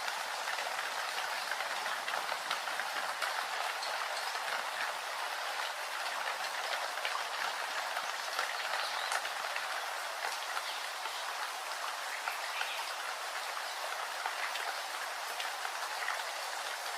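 Steady rain falling: an even hiss with many small drop ticks throughout.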